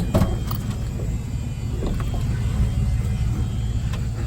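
A vehicle engine idling steadily, with a few light knocks and clicks over it.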